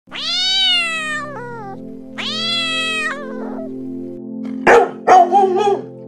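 A domestic cat meowing twice, long drawn-out meows that fall in pitch, then a dog barking twice near the end.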